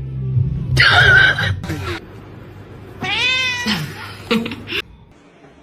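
Domestic cat meowing: a loud cry about a second in, then a long meow that rises and falls about three seconds in, followed by a few short sounds.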